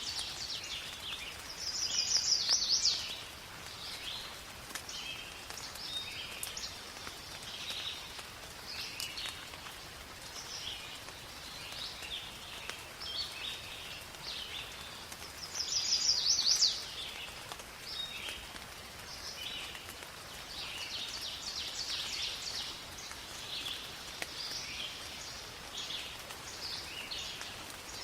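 Rain falling in a forest while many birds chirp and sing throughout. A louder, fast bird trill comes twice, about two seconds in and again just past the middle.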